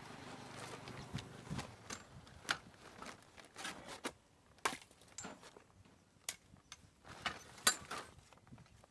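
Scattered light knocks and clicks at irregular intervals, about a dozen over the span, the sharpest near the end.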